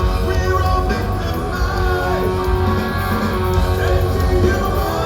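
A progressive metal band playing live: loud, dense band music with heavy bass and drums.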